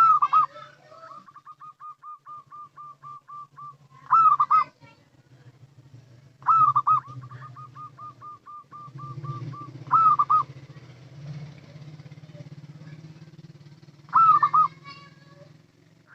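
Zebra dove (local perkutut) cooing: five loud rolling coo phrases, three to four seconds apart, two of them trailed by a run of quick, soft, even staccato notes.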